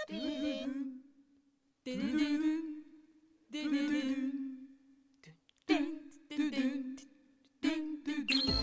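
A voice humming or singing unaccompanied in five short phrases, each ending on a held steady note, with brief pauses between them. Music comes in right at the end.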